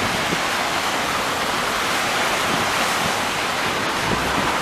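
Steady hiss of rain falling on a city street.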